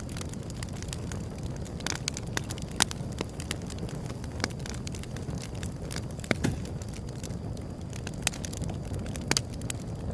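Wood fire burning with a steady low rumble of flame and irregular sharp crackles and pops; the loudest pops come a little under a third of the way in and again past the middle.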